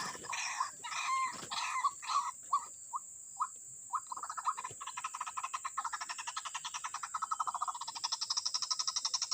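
White-breasted waterhen calling: a run of harsh repeated notes that slow and break off about three seconds in, then from about four seconds a fast, even pulsing chatter that carries on.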